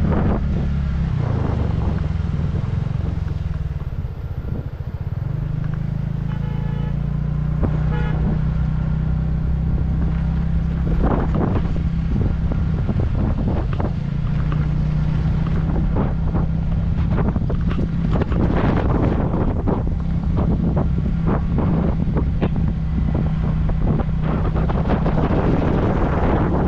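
Motorcycle engine running on the move, its note dropping over the first few seconds and then holding steady, with wind rushing over the microphone. A vehicle horn toots briefly twice, about seven and eight seconds in.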